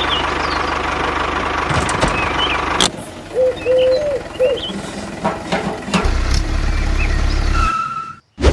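Small engine-like machine running steadily, dipping briefly about three seconds in, with short bird-like chirps over it.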